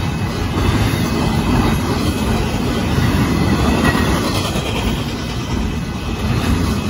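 Union Pacific double-stack intermodal freight train passing at speed: the loud, steady rumble and clatter of its cars' wheels on the rails.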